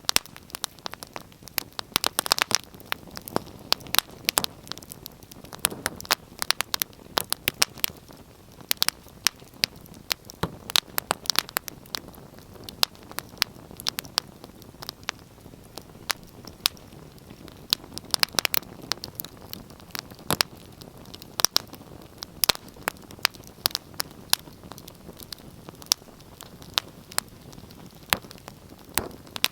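Wood fire burning in a fireplace, crackling and popping with irregular sharp snaps over a soft steady hiss.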